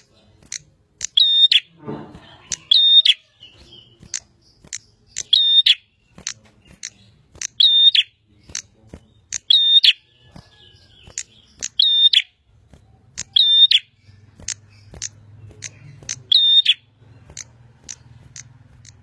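Prinia (prenjak) singing vigorously: a short, sharp call phrase repeated about every two seconds, with rapid clicking ticks in between.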